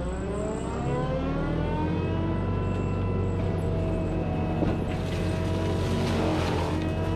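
Cat 259D compact track loader's diesel engine and forestry mulcher head winding up, the pitch rising over the first two seconds and then holding at a steady high whine.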